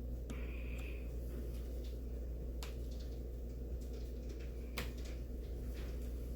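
Steady low hum with a few faint, sharp clicks spread through it, about three in all.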